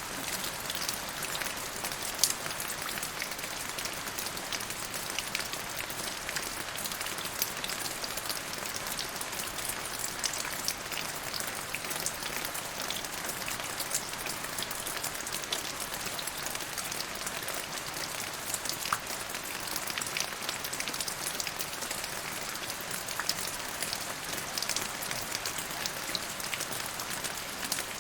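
Steady rain falling, with many individual drops ticking sharply on surfaces close by.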